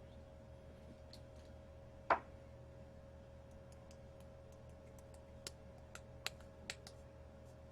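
Faint steady hum with one sharp knock about two seconds in, then a handful of light clicks near the end.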